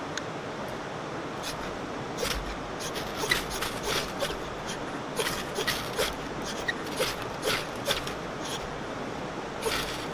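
Steady rush of falling or running water, with a run of short scraping, crunching sounds at about two a second from a couple of seconds in.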